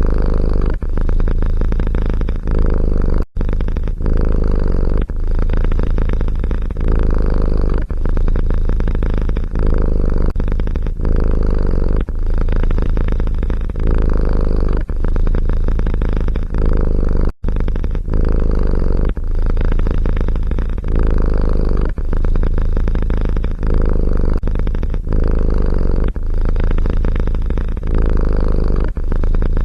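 A domestic cat purring close to the microphone, loud and steady and strongest in the low register. It dips briefly with each breath, about every second and a half, and drops out for an instant twice.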